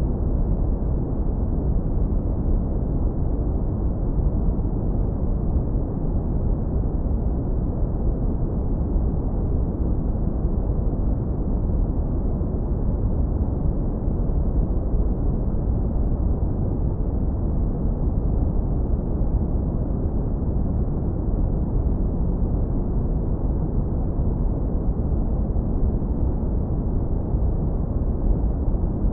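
Synthetic brown noise, heavily low-pass filtered: a steady, deep rumbling hiss with nothing above the low end, unchanging throughout.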